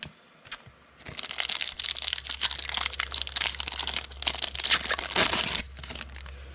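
Foil wrapper of a football trading card pack crinkling as it is torn open and handled. The crackling starts about a second in and stops abruptly near the end.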